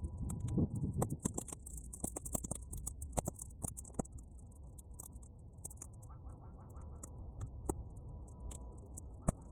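Bonfire of half-dried weeds crackling, with many sharp snaps and pops. They come thick over the first few seconds and then thin out, with one loud pop near the end. A low rumble of wind lies under the first moments.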